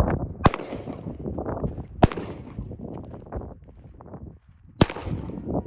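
Three single gunshots, each a sharp crack: one about half a second in, another about a second and a half later, and the last nearly three seconds after that.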